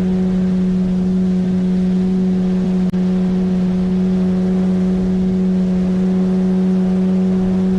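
A 9.8 hp outboard motor runs at a steady cruising speed, one unchanging drone with the rush of water under the hull. There is a momentary drop in the sound about three seconds in.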